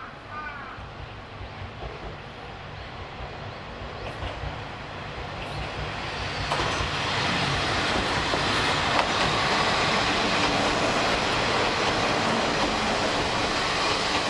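Kominato Railway diesel railcar approaching along the track and passing close by. Its engine and wheels grow steadily louder, then become a loud, even rumble from about halfway in as it goes by. A crow caws a couple of times at the very start.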